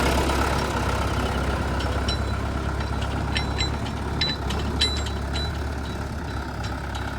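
Diesel engine of a backhoe loader or tractor running steadily at idle. A scatter of short, sharp metallic clicks comes in the middle.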